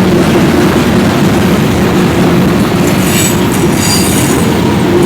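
Freight train cars rolling past, a loud steady rumble, with high-pitched wheel squeal about three to four and a half seconds in.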